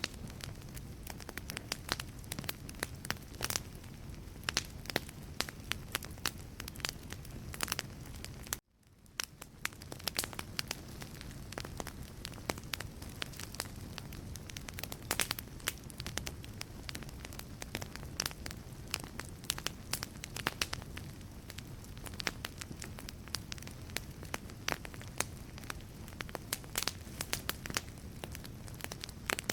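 Wood fire burning in a fireplace, crackling with frequent sharp pops and snaps over a low steady rumble of the flames. About nine seconds in the sound cuts out abruptly and fades back in.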